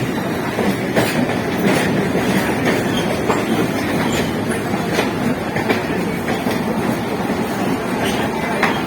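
Electric multiple-unit local train running along the track: a steady rumble of wheels on rail with irregular sharp clicks over rail joints.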